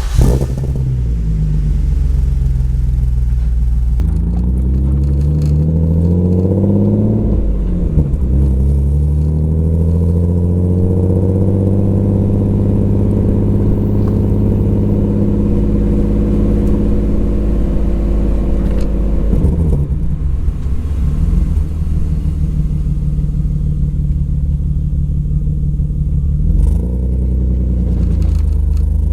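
BMW M50B25 2.5-litre inline-six running through stainless headers and a 3-inch stainless exhaust with a small mid silencer and larger rear silencer, as the car drives. The revs climb for a few seconds, drop sharply at a gear change, then rise slowly and hold steady before easing off around twenty seconds in and again near the end.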